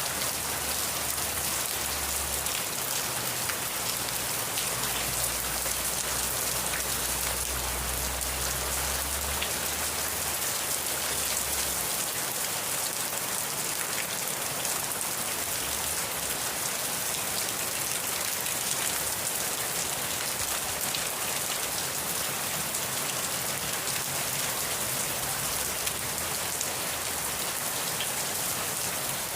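Steady, heavy rain falling and spattering on a surface, an even unbroken hiss. A faint low rumble sits under it for the first dozen seconds or so.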